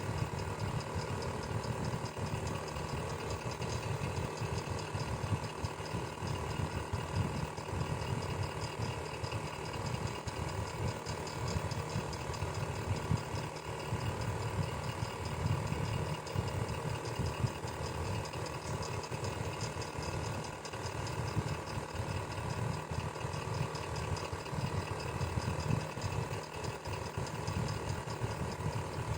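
Electric fan running steadily: a constant low motor hum with a steady whine and a light, even flutter of the blades.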